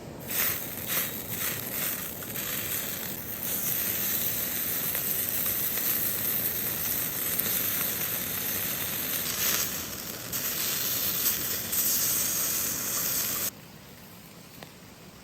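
A loud, steady sizzling hiss, with a few sharp crackles in the first few seconds, that cuts off suddenly near the end.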